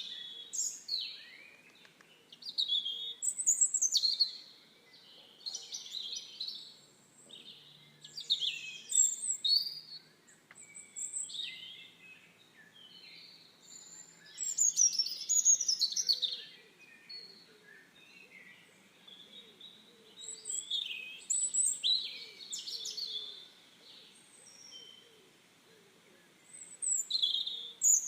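Birdsong: a string of high chirping, warbling phrases, one after another with short pauses between.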